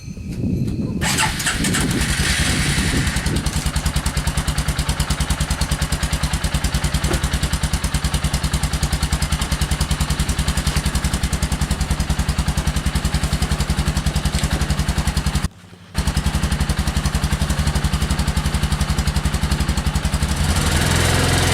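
Small engine starting and then running steadily with an even, rapid beat. There is a sudden half-second break about two thirds of the way through, after which it carries on unchanged.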